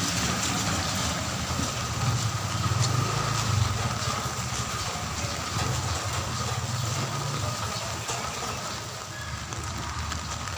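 A motor vehicle's engine running low and steady, a little louder a few seconds in, over a steady hiss of rain.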